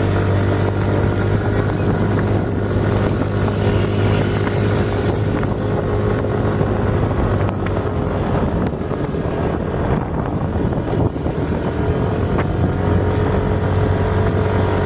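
A vehicle engine running steadily at an even speed, with wind noise on the microphone.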